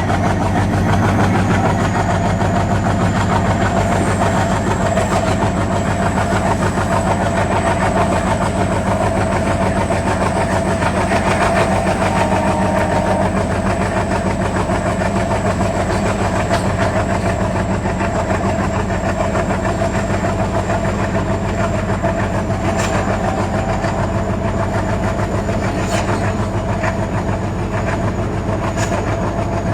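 WDM-3D diesel locomotive's 16-cylinder ALCO 251 engine running steadily: a constant deep drone with a thin, high whine above it. A few sharp clicks come in the last third.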